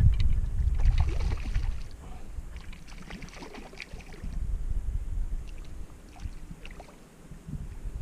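Wind buffeting the microphone for about the first two seconds, then light water sounds with scattered small ticks and knocks from the angler's boat and tackle.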